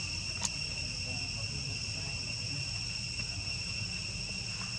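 Steady high-pitched insect trill, with a single click about half a second in.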